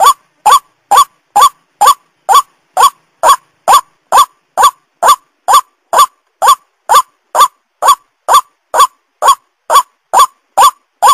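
White-breasted waterhen (ruak-ruak) calling: a short, identical call repeated steadily about twice a second without a break, as in a looped lure-call recording.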